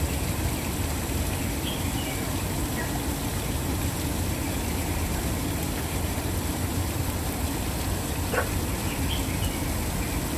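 Steady rushing of a waterfall, with a few faint, brief bird chirps over it.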